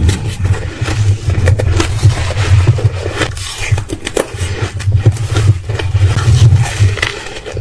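Ice being bitten and chewed close to the microphone: a dense run of sharp crunches and crackles over a low chewing rumble that comes in two long stretches, one in the first half and one in the second.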